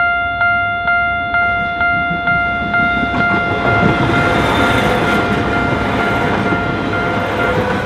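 Railway level-crossing bell ringing about twice a second as a Jiji Line train runs over the crossing; the train's running noise builds from about three seconds in.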